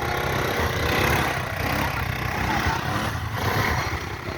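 Quad bike engine running steadily at idle or low throttle.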